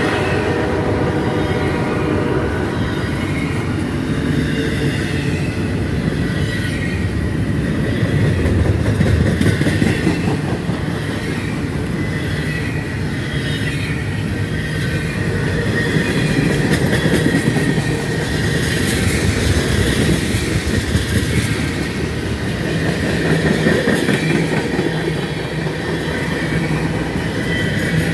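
Freight cars (double-stack container well cars, then tank cars) rolling past close by: steady rumble of steel wheels on rail, clicking over the rail joints, and a high steady wheel squeal that grows stronger in the second half.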